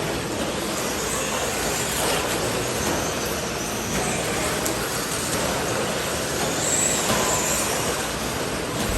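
Radio-controlled stadium trucks racing around a track: a steady mix of motor and tyre noise, with high motor whines rising and falling as trucks accelerate and pass.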